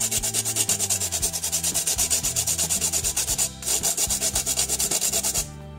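A whole nutmeg rasped back and forth on a fine metal hand grater: quick, even scraping strokes, with a brief pause about three and a half seconds in, stopping just before the end.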